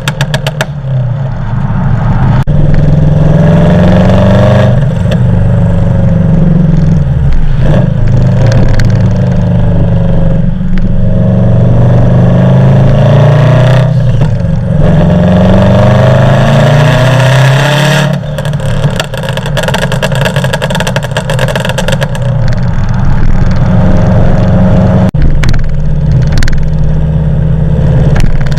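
Subaru Forester STI's turbocharged flat-four engine accelerating hard, rising in pitch and dropping back at each of several gear changes, with a spell of crackling pops on lift-off about two-thirds of the way in.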